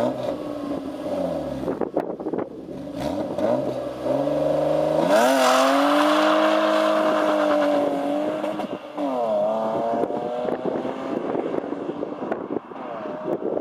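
BMW E36 325i straight-six engine revving through an emptied stock exhaust. It gives a few quick blips that fall away, then climbs sharply about five seconds in and holds high revs for about three seconds. It then drops back, blips once more and settles lower.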